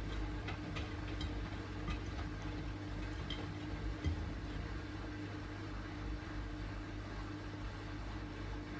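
Miele front-loading washing machine draining after the final rinse: the drain pump hums steadily, with scattered light clicks from the machine.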